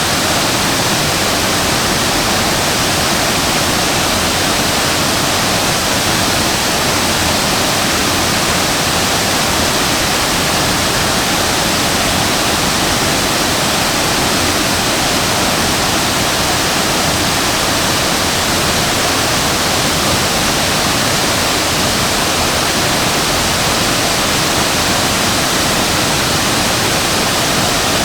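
Waterfall: a large cascade of water plunging and splashing, a loud, steady, even rush without breaks.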